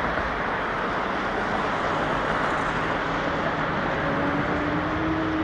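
Jet airliner engine noise, a steady rush with a faint whine that rises slightly about four seconds in.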